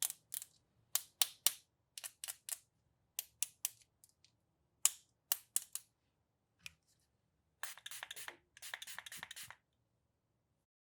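Crisp plastic clicks and snaps, often in quick pairs or threes, as small plastic toy pieces and packaging are handled, followed by two short bursts of rustling.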